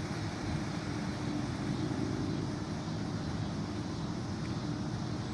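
Steady outdoor rumble, mostly wind buffeting the microphone, with a faint steady hum underneath.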